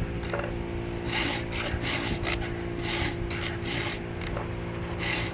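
A file stroking across the cutter teeth of a 36-inch, 114-drive-link chainsaw milling chain while the chain is sharpened by hand. It makes short, rasping strokes, about two a second.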